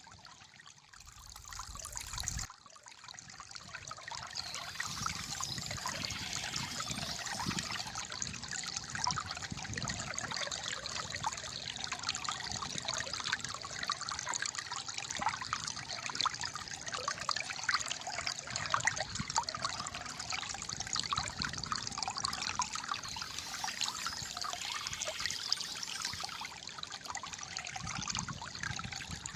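Calm flowing water trickling and gurgling steadily. It is quieter and uneven in the first couple of seconds, then settles into an even flow.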